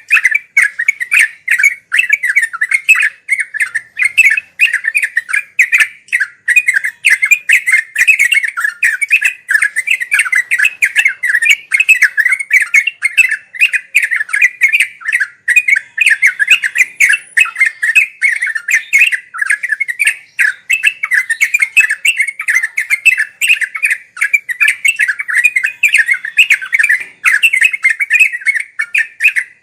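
Yellow-vented bulbul (trucuk) singing a fast, unbroken run of chattering notes, the rapid continuous 'ngeropel' style of song.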